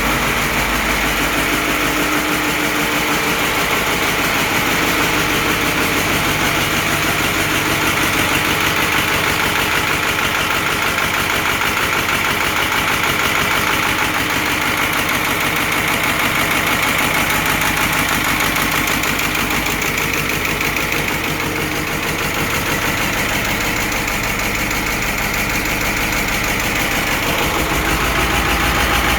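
Caterpillar 3208 V8 diesel in a White 2-180 tractor idling steadily, still cold shortly after a cold start without ether or a block heater.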